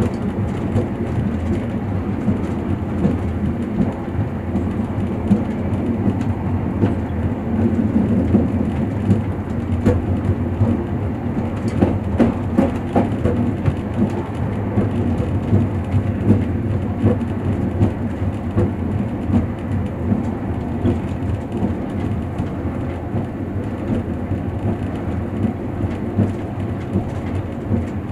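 Passenger train running along the track, heard inside the carriage: a steady low rumble with frequent small irregular knocks and rattles.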